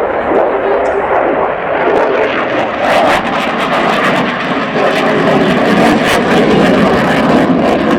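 Fixed-wing display aircraft flying past: a loud, continuous engine noise that grows harsher and brighter about three seconds in.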